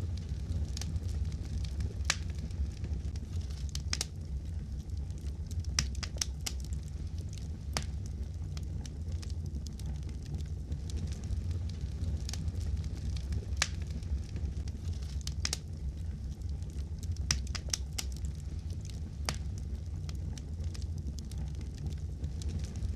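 Fireplace fire crackling: a steady low rumble of flames with irregular sharp pops and snaps.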